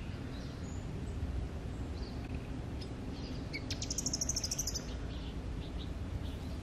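Outdoor ambience with a steady low rumble, and a bird giving a quick run of high chirps about four seconds in.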